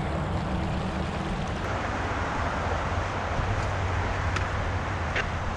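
Steady rushing of flowing creek water, with a few faint ticks near the end.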